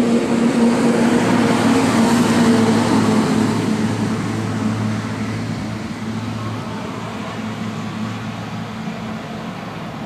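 A motor vehicle's engine running close by with a steady low hum, loudest about two seconds in and then slowly fading.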